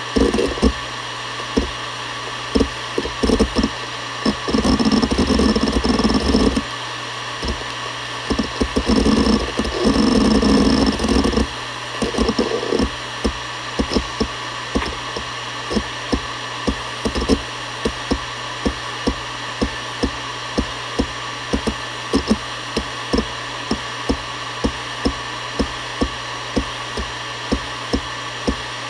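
Seagate Barracuda ES.2 ST31000340NS 7200 rpm hard drive spinning with a steady whine and hum while its heads seek. Dense runs of seek noise fill the first ten seconds or so, then give way to separate seek clicks about two a second.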